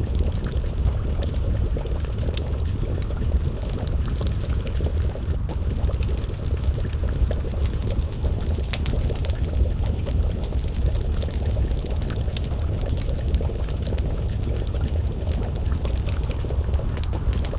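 Wood fire crackling with many small, irregular pops over a steady low rumble, together with a pot of stew bubbling as it simmers over the flames.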